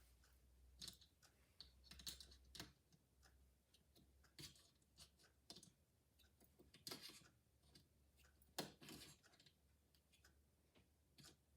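Faint, irregular clicks and soft rustles of plastic glider-twist stops being slid and twisted along a drapery rod track as the pleated drapery is pushed into a tighter stack, with one louder click near the end.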